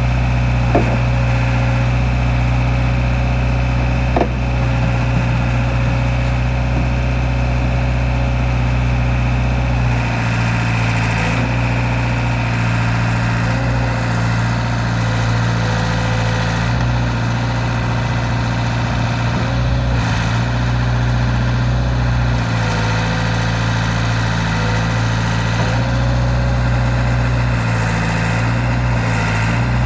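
Diesel engine of a 1987 Caterpillar 426 loader backhoe running steadily, its note shifting back and forth from about a third of the way in, with a few light knocks.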